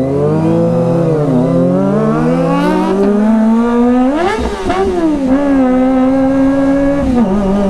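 Kawasaki ZX-25R's inline-four engine under way, revs climbing steadily with a dip about a second in, then a quick rise and fall in revs about four seconds in, a steady stretch, and a drop near the end as it changes gear.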